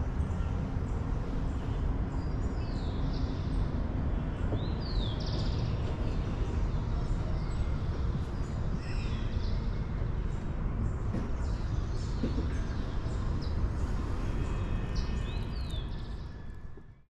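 Birds chirping and calling repeatedly, many short quick sweeping calls, over a steady low rumble; the sound fades out at the very end.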